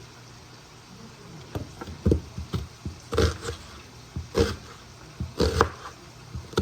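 A series of irregular knocks and thuds, about eight of them over a few seconds, as things are handled in a kitchen.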